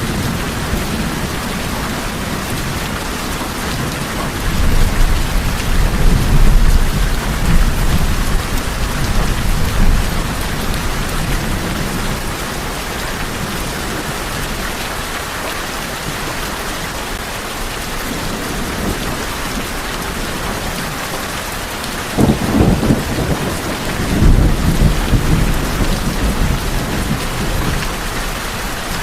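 Steady heavy rain falling on a tin roof, with two long low rolls of thunder: one starting about five seconds in and fading over several seconds, and another starting about twenty-two seconds in.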